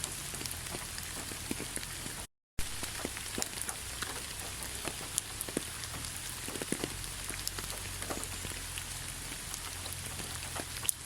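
Steady rainfall, with many separate raindrops striking close by over the even hiss of the rain. The sound cuts out completely for a fraction of a second about two seconds in, then resumes.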